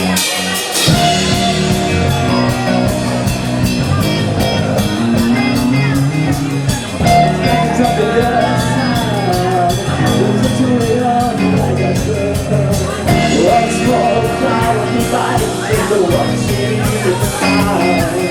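Live rock band playing loudly, with a steady drum beat under electric guitar, in a passage between sung lines.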